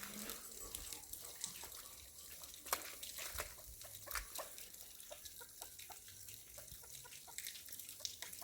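Chickens clucking faintly, with scattered small clicks and knocks.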